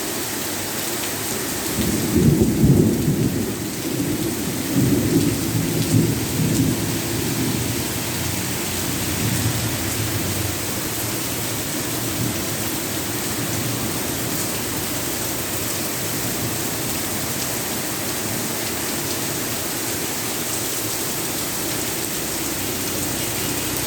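Steady rain hissing throughout, with a roll of thunder about two seconds in that rumbles for several seconds and fades away.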